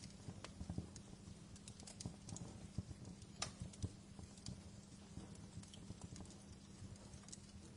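Wood fire in a fireplace crackling, with irregular sharp pops and snaps over a low rumble of the flames.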